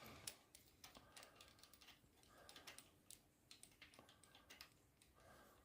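Faint, scattered small clicks and taps, like small metal parts being handled and fitted by hand.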